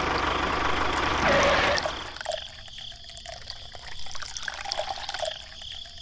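A loud rushing noise for about two seconds, then water trickling and gurgling out of the end of a small plastic pipe into a puddle, with small bubbly drips.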